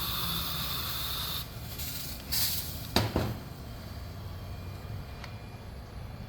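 Aerosol freeze spray hissing onto an engine part to chill and shrink it for fitting. The hiss lasts about a second and a half, then comes a shorter burst of spray and a sharp knock about three seconds in.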